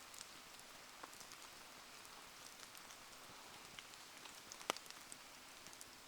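Steady rain hiss with scattered small pops and ticks from a wood bonfire burning in the rain, and one sharp crack a little after halfway.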